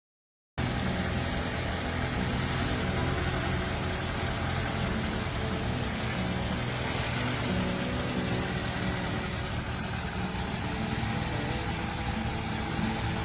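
Car engine idling steadily, cutting in abruptly about half a second in.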